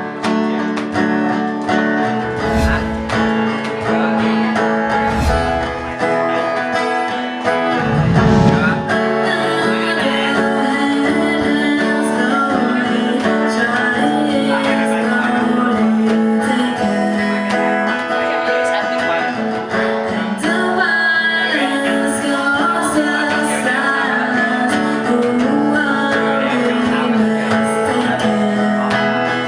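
Acoustic guitar music, plucked and strummed, with a few deep low hits in the first nine seconds.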